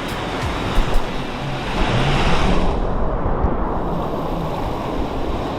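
Ocean surf washing on the shore: a steady rush of water that swells about two seconds in and then softens. Faint background music underneath.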